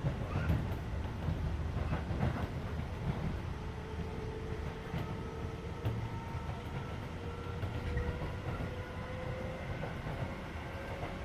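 Keisei 3400 series electric train heard from inside a passenger car while running, a steady rumble of wheels on rail with a few faint clicks. A faint tone slowly rises in pitch over the second half, and the air conditioning is running.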